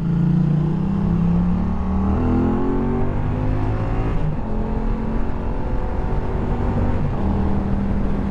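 2016 Yamaha FZ-07's 689cc parallel-twin engine with an Akrapovic exhaust, accelerating hard under throttle: the revs climb for about four seconds, then drop at an upshift. After that it runs at steady revs, with another small change in pitch near the end.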